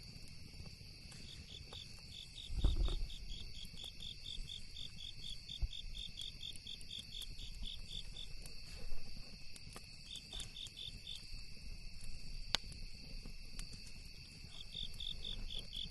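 Crickets chirping in a steady high chorus, with one nearer cricket trilling in quick pulses about four a second that stops and starts again. Sharp pops of a crackling campfire come here and there, and a brief low rumble sounds near three seconds in.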